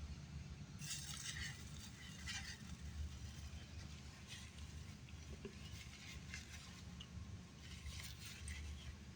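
Quiet chewing of crisp battered fried shrimp, with scattered faint crunches and crackles over a steady low hum.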